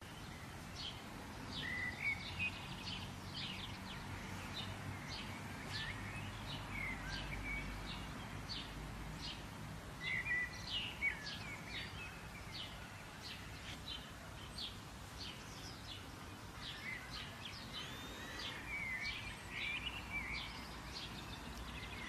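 Small birds chirping and singing, a busy run of short high chirps and a few whistled notes, over a steady low outdoor rumble.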